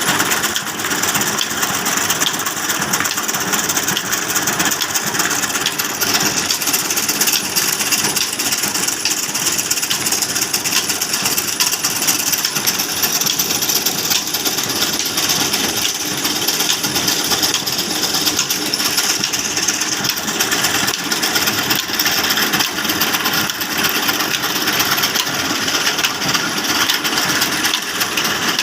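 Large old black diesel engine running steadily with a dense, fast clatter.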